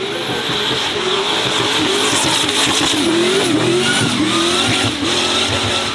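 A racing car's engine revving hard, its pitch wavering up and down, with some tyre squeal.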